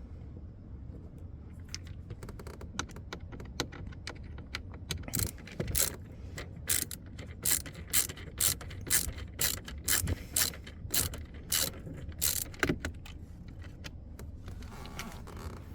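A run of sharp mechanical clicks, ratchet-like, faint at first and then loud at about two a second, stopping a couple of seconds before the end.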